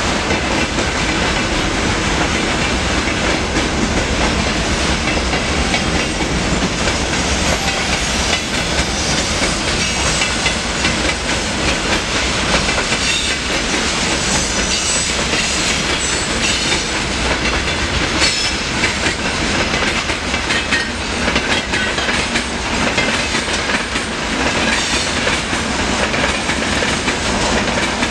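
Freight train of open gondola wagons rolling past close by: a steady loud rumble of wheels on rail, with scattered sharp clicks as the wheels cross rail joints.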